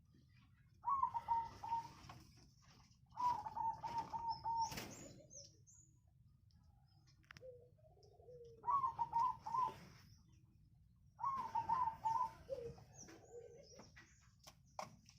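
Zebra doves (perkutut) cooing: four loud phrases, each a quick run of repeated high coos, with softer, lower coos in between.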